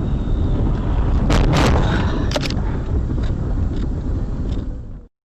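Low road and engine rumble from a car, then a collision: two sharp crashing impacts about a second apart, followed by a few lighter knocks. The sound cuts off suddenly near the end.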